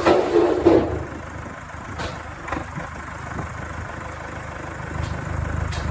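An engine idling steadily with a low rumble. There is a louder clatter in the first second, and a few single knocks follow.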